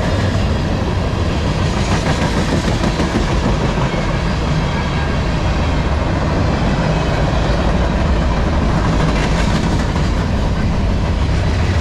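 Freight train cars, a mix of tank cars and boxcars, rolling past close by: a loud, steady rumble of steel wheels on the rails.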